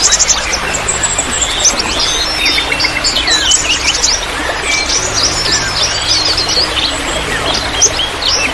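A mixed chorus of many small songbirds chirping, trilling and calling rapidly over one another, over a steady trickle of water. This is a bird-lure recording, played to set caged birds singing.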